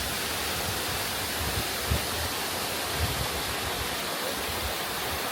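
Rushing river water, a steady, full hiss of water running over rocks, with a few low bumps about two and three seconds in.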